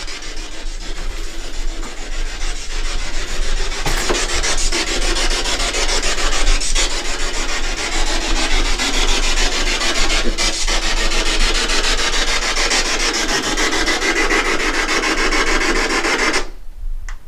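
Ghost box (spirit box) sweeping the radio band: a continuous harsh hiss of radio static, rapidly chopped as it scans, switched off abruptly near the end.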